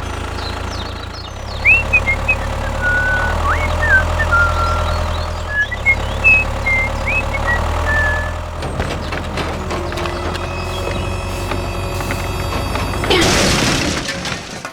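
Small engine of a DIY mini tractor running steadily. Short high chirps sound through the first half, and a brief loud rush of noise comes near the end.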